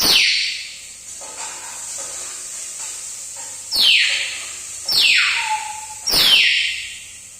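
Pet parrot giving four loud, harsh screeches, each falling in pitch over less than a second, with faint chattering between the first and second.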